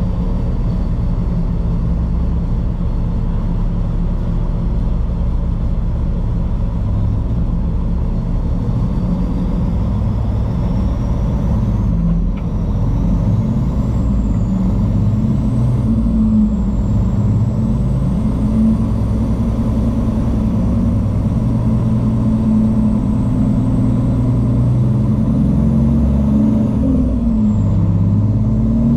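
Heavy truck's diesel engine running under way, its pitch stepping up and down, with a faint high whine gliding slowly upward over it.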